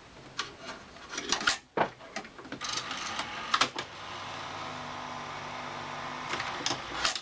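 Panasonic NV366 VHS recorder's mechanism in play: a few clicks and knocks, then a steady motor whirr from about three seconds in, with a couple more clicks. The capstan is not turning, which the owner puts down to the capstan belt.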